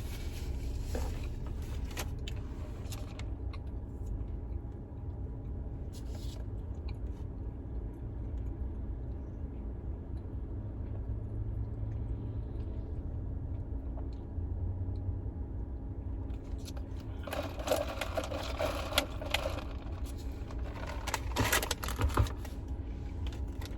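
Steady low hum inside a car, with occasional clicks and a few seconds of rustling and crinkling of fast-food packaging about three quarters of the way through.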